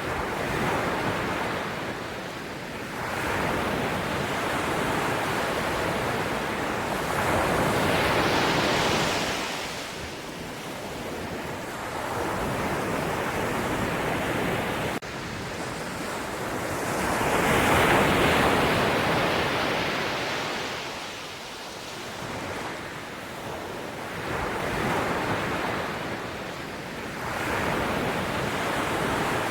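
Sea waves breaking and washing on a shore, rising and falling every few seconds, with the two biggest surges about eight seconds in and again around eighteen seconds.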